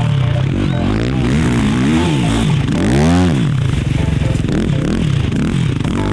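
Race quad's engine being ridden hard, revving up and dropping back again and again in low gears. The loudest rev comes about three seconds in.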